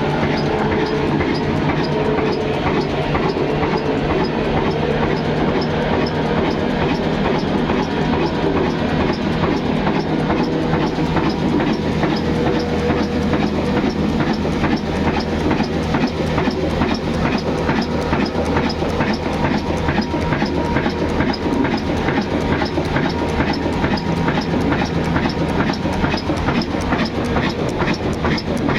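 22 HP stationary diesel engine running steadily, with an even, repeating beat.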